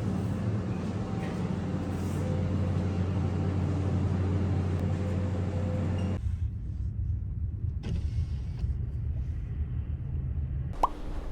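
Steady low rumble that changes abruptly about six seconds in, with a brief sharp tone near the end.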